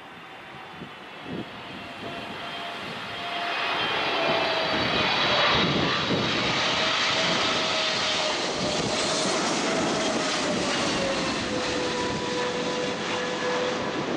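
Boeing 777-300ER's GE90-115B turbofans on arrival, the jet noise swelling over the first few seconds and then holding loud, with an engine whine that slowly falls in pitch as the airliner passes.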